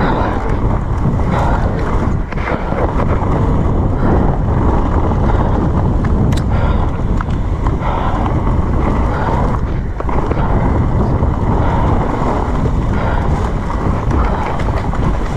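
Wind buffeting the microphone of a mountain-bike rider's camera on the move, with a continuous noise of tyres and bike on a wet trail and scattered short knocks and rattles.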